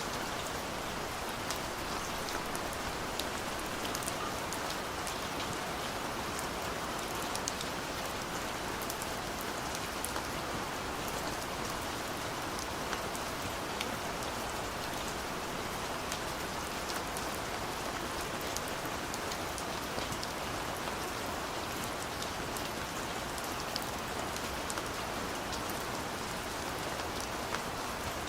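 Steady rain falling, an even hiss of drops with scattered sharper drop ticks on top.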